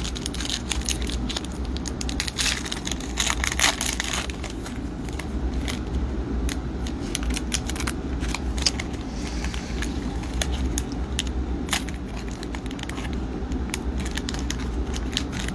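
Trading-card pack wrappers being torn open and crinkled, with cards being handled: irregular crackling and rustling throughout, over a steady low hum.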